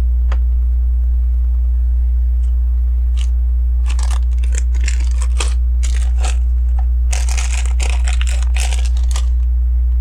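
A steady low electrical hum, with two spells of crackling, rustling plastic, about four seconds in and again about seven seconds in, as loose LEGO pieces are handled and sorted through.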